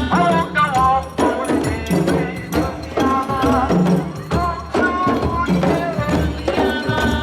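Live African parade music: percussion playing a steady, repeating beat with sharp strokes, and a bending melodic line over it.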